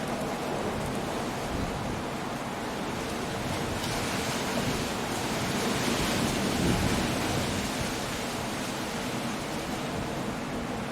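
Storm surf on a rocky coast: a steady wash of sea and wind, with a wave surging and breaking louder about four seconds in, peaking around the middle and easing off.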